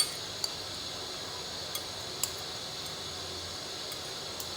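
About five light clinks of a utensil against a bowl, spaced unevenly, the sharpest right at the start, as dressing is put on a vegetable salad.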